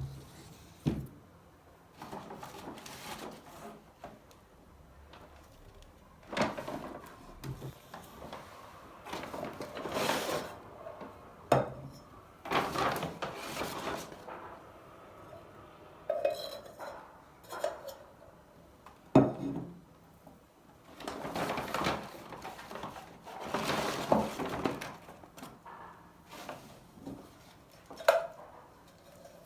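Dishes and cutlery being handled and set down, with scattered clinks and knocks and stretches of rustling between them.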